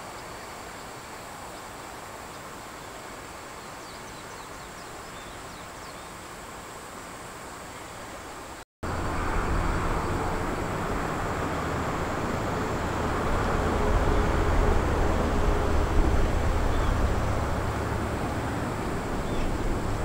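Outdoor riverbank ambience: a steady soft hiss that changes abruptly about a third of the way in to a louder, steady low rumble with noise, like distant traffic or wind.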